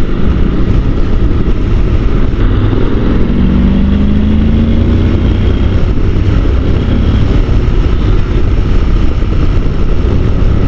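Honda NC750 DCT parallel-twin motorcycle engine running under way, mostly covered by heavy wind rush on a helmet microphone. The engine note rises gently about three to five seconds in.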